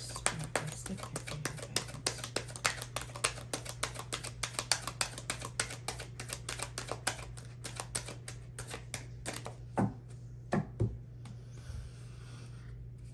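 Tarot cards being shuffled by hand: a quick, irregular run of small clicks and snaps, then two louder knocks about ten seconds in. A steady low hum runs underneath.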